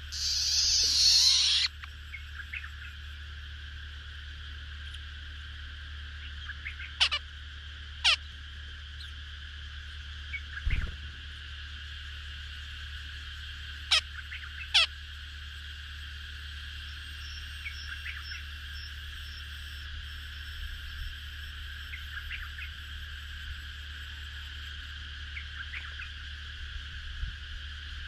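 A steady, unbroken animal chorus on two high pitches, with a low hum under it. A loud hissing rush fills the first two seconds, and a few short, sharp calls sweeping downward come singly about 7, 8, 14 and 15 seconds in.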